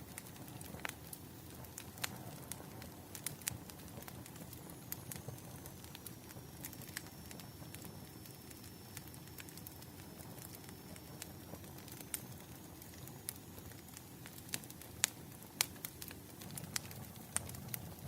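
Wood fire crackling: irregular sharp pops and snaps over a steady low rumble of flames, with the loudest pops in the last few seconds.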